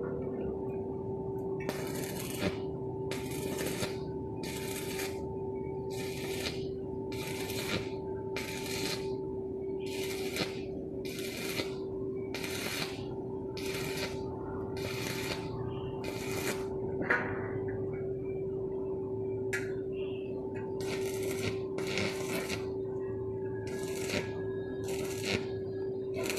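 Welding arc sizzling in short bursts of about half a second, roughly one a second, as the arc is struck and broken again and again, with a pause of a few seconds partway through. A steady hum with a constant tone runs underneath.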